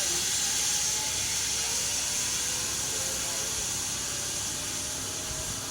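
Zipline trolley running along the steel cable: a steady high hiss that slowly fades.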